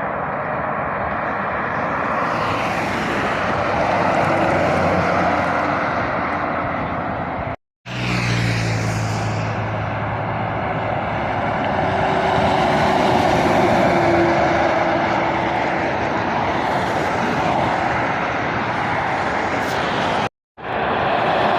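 Road traffic passing at speed: a steady rush of tyre and engine noise, with a heavier engine hum passing after about eight seconds. The sound cuts out suddenly twice, near the middle and near the end.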